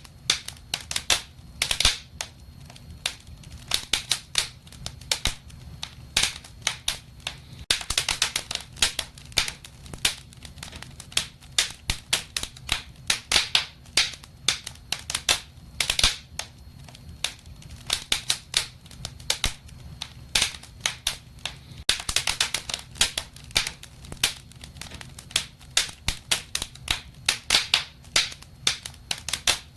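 Wood fire crackling in a fireplace: frequent, irregular sharp pops and snaps, sometimes in quick clusters, over a low steady rumble.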